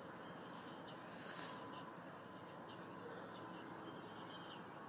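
Scattered bird chirps over a faint steady background hiss, with one louder call about a second in.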